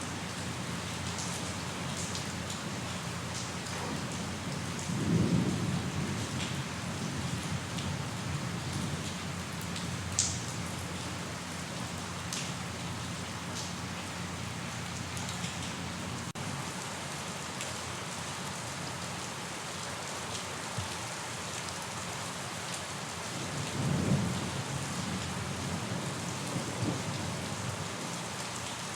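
Steady rainfall with individual drops ticking, and two short low rumbles of thunder, one about five seconds in and another some twenty seconds later.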